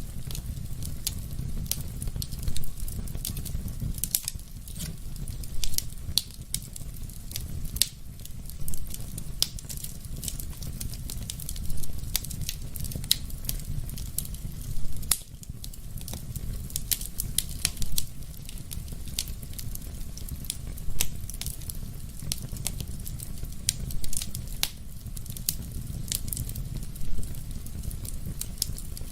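Wood fire burning in a fireplace: a steady low rumble of flames with frequent sharp crackles and louder pops every few seconds.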